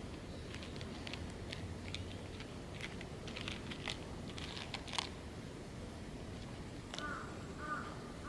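Irregular crisp clicks and crunches, like a cat chewing dry food. Near the end come about three short repeated chirps, roughly half a second apart.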